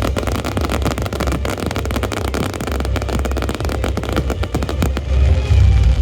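Fireworks going off in a dense run of rapid sharp cracks and pops over a low rumble, thinning out about five seconds in.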